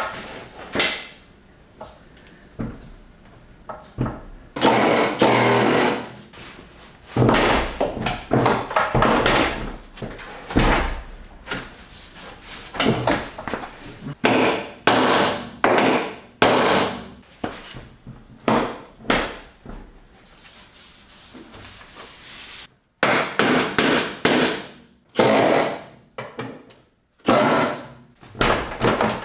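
Irregular metal clanks and knocks, some ringing briefly, from work on a pickup truck's door and hinges as its gaps to the cab and fender are being adjusted.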